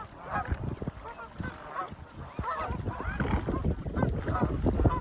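A crowd of mute swans calling together: many short, overlapping honking calls, over an uneven low rumble.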